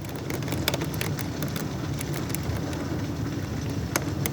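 Hail and heavy rain pelting a window: a steady rain hiss with scattered sharp ticks of hailstones striking.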